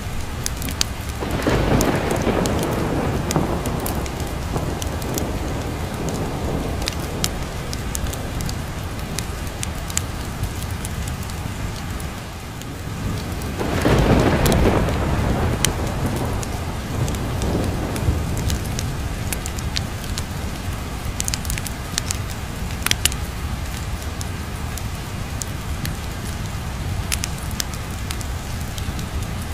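Steady rain with thunder rolling twice, once about a second in and again about halfway through, each swelling and then fading over a few seconds. Scattered sharp ticks sound over the rain.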